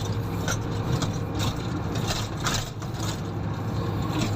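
Komatsu motor grader's diesel engine running steadily while grading a haul road, with scattered short clicks and rattles over it.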